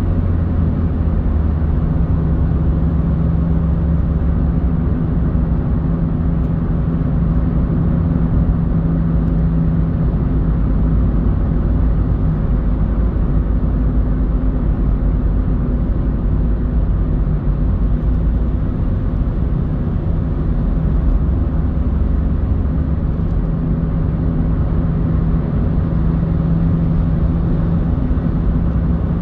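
Car driving along: a steady low rumble of engine and road noise, with a constant hum that shifts slightly in pitch as the engine speed changes.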